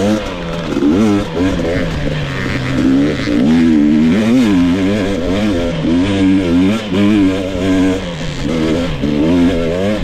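2022 GasGas EX 250 two-stroke dirt bike engine being ridden, its pitch rising and falling again and again as the throttle is opened and closed.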